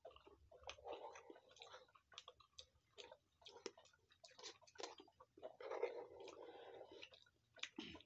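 Quiet close-up eating sounds: a person chewing instant noodles, with many small wet mouth clicks and smacks. Two longer, denser stretches of chewing come about a second in and around six seconds.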